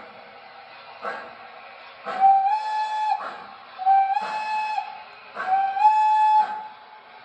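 O scale model steam locomotive's onboard sound system blowing its steam whistle three times, each blast about a second long and stepping up slightly in pitch partway through. Under the whistle is a slow, regular chuff, roughly one beat a second.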